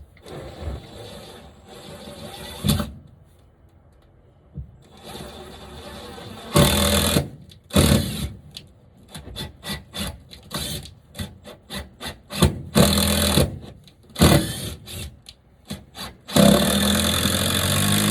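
A power drill driving screws into wood in several short bursts, with a longer run of about three seconds near the end.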